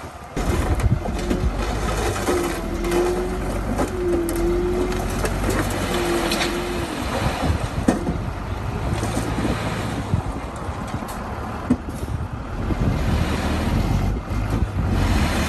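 Diesel engine of heavy earthmoving equipment running steadily, with three short whines partway through.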